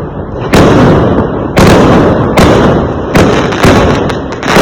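Fireworks going off: six loud bangs in under five seconds, each followed by a rumbling decay that runs into the next.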